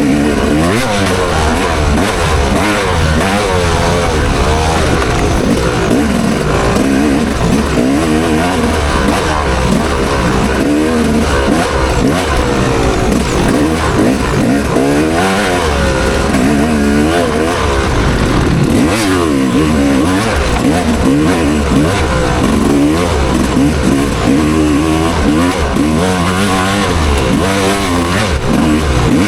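Motocross bike engine under race throttle, its pitch rising and falling over and over as the rider opens and closes the throttle and shifts through the gears.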